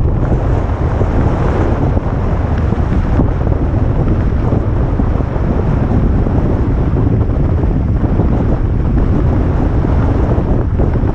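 Heavy wind noise buffeting the microphone during a drive, a loud, steady rumbling roar that covers everything else.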